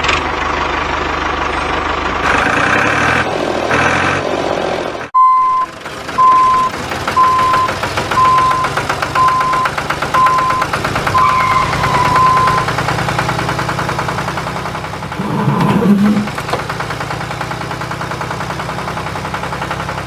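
Engine of a homemade mini tractor running steadily. About five seconds in, a series of evenly spaced high beeps like a reversing alarm sounds about one and a half times a second for several seconds. A brief louder surge comes near the end.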